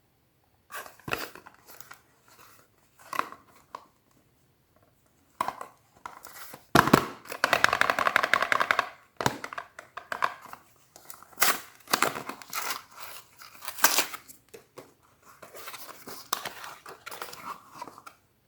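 A soap bar's wrapper being torn open and crinkled by hand, in short bursts of rustling and crackling. The loudest part is a long rasping tear a third of the way in.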